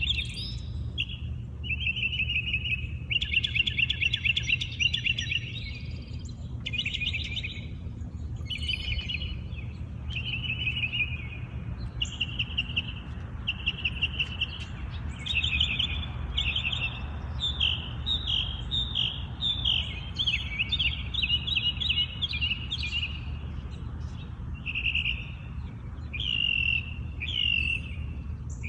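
A songbird singing a continuous string of short, varied phrases, one after another, over a steady low rumble.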